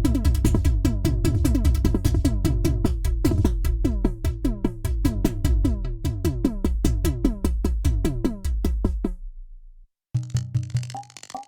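Nord Drum 3P synthesized drum kit playing a fast rhythm pattern, each hit a pitched drum tone that drops in pitch. The pattern dies away about nine seconds in, there is a moment of silence, and a different-sounding kit starts the pattern again near the end.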